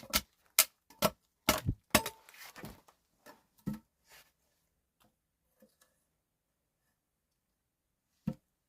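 A series of sharp knocks or strikes, several in quick succession over the first two seconds, then fewer and fainter, with a single strike near the end.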